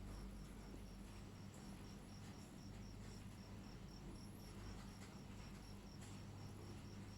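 Faint, high-pitched chirps from a small animal, repeated evenly about four times a second, over a low steady hum.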